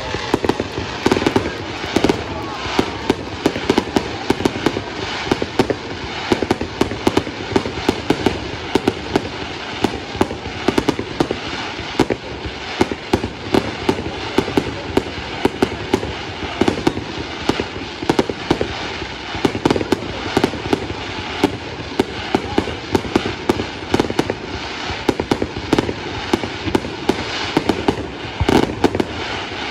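Fireworks display: aerial shells bursting and crackling in a dense, continuous run of sharp bangs and pops, several a second.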